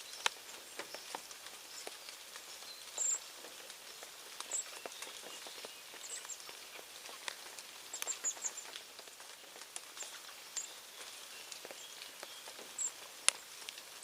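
Birds at a feeding spot: short, very high chirps every second or two, over a background of scattered sharp clicks and ticks. One click about 13 seconds in is louder than the rest.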